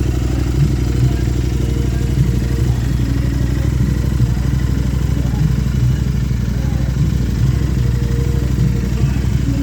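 Royal Enfield Interceptor 650's parallel-twin engine idling steadily through stainless steel Gursewak aftermarket exhausts with the dB killers removed, a low, even exhaust beat.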